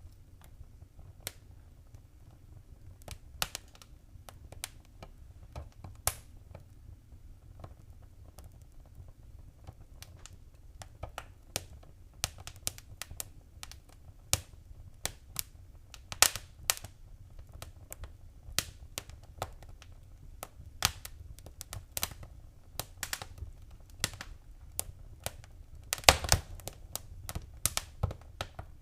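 Wood fire crackling in a fireplace: irregular sharp pops and snaps over a low steady rumble of the flames, with a quick burst of louder pops near the end.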